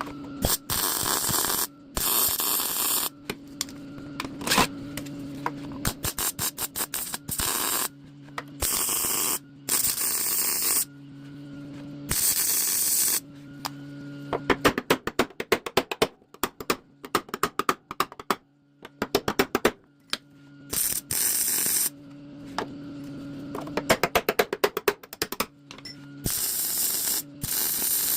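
Welder laying a series of short plug welds through drilled holes to fix a sheet-metal panel. Each weld is a burst of crackling sizzle about a second long, with stretches of fast crackle in places and a steady hum between the welds.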